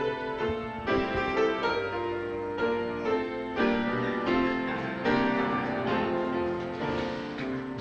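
Piano playing the introduction to a slow congregational song: chords struck about once a second and left to ring.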